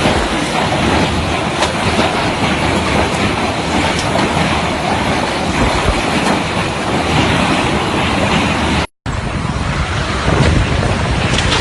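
Heavy storm pelting down: a dense, loud rattling din of countless sharp impacts. It cuts out for a moment about nine seconds in, then carries on.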